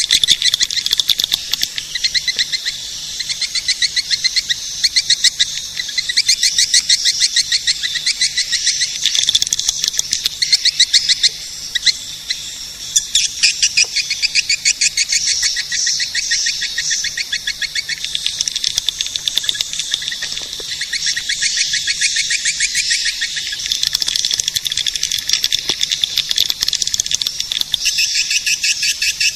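Swiftlet caller recording: a dense, unbroken twittering of many swiftlets' rapid chirps, all high-pitched. It is a lure sound played to draw swiftlets to roost and nest.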